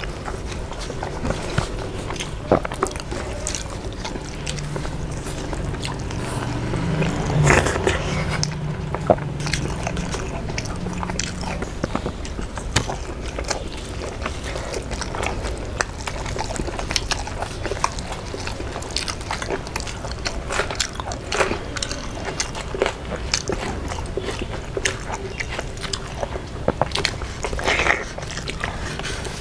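Close-miked eating sounds of two people chewing mouthfuls of rice and fried fish, with a dense, irregular run of wet clicks and lip smacks.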